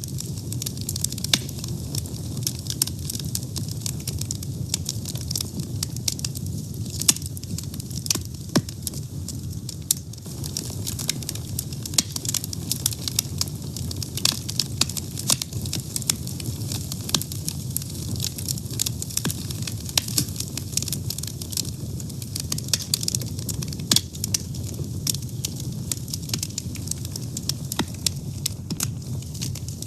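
Fire burning, with frequent sharp crackles and pops over a steady low rumble of the flames.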